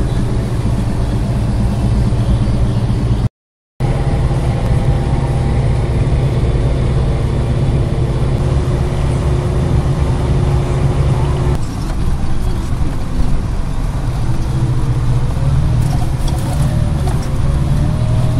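4x4 engine and tyre noise heard from inside the cabin while driving on snow: a steady low drone. It cuts out briefly about three seconds in, and the sound changes a little past halfway.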